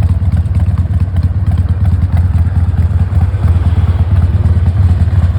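Harley-Davidson XL1200R Sportster's 1200 cc Evolution V-twin running steadily with a rapid, loud low pulse.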